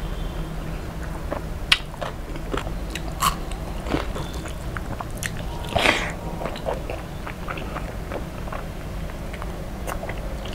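Close-up chewing and crunching of deep-fried rohu fish and rice, with scattered sharp crackles and wet mouth clicks; the loudest crunches come a little under 2 s, about 3 s and about 6 s in.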